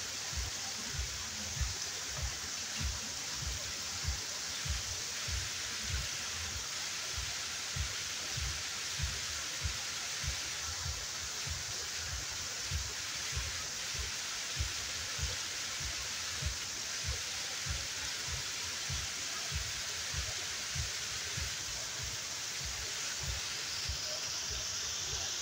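Waterfall rushing steadily, with short low thuds repeating roughly twice a second underneath.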